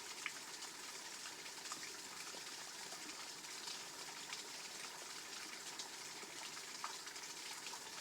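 Water running steadily over a small waterfall, a constant rushing hiss with a few light clicks and splashes.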